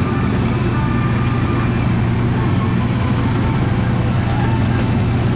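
Casey Jr. Circus Train ride running along its track, a steady low rumble heard from on board.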